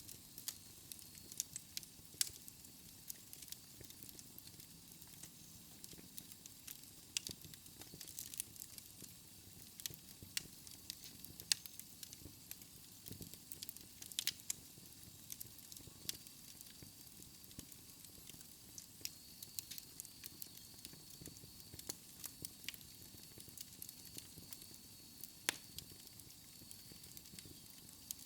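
Fire in a fireplace crackling: irregular sharp pops and snaps, some louder than others, over a soft hiss.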